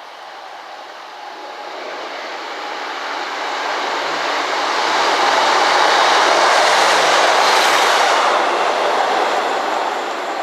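A train passing at speed: wheel and rail noise builds, is loudest about six to seven seconds in, then fades as it moves away.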